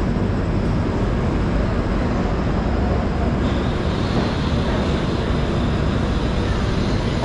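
Indian Railways passenger coach pulling out of a station, heard from its open doorway: a steady rumble of the running coach and wheels on the rails. A faint high whine joins about three and a half seconds in.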